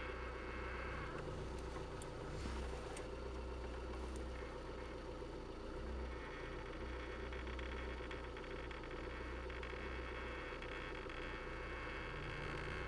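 Lada Kalina's engine running steadily, heard from inside the car's cabin, with a few faint clicks.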